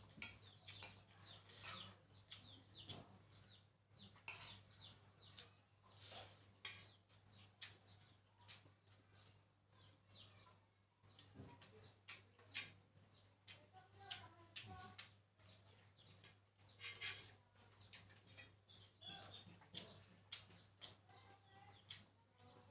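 Faint eating sounds, chewing fried tempe and tofu in short sharp bursts, with small birds chirping over and over in the background and a steady low hum.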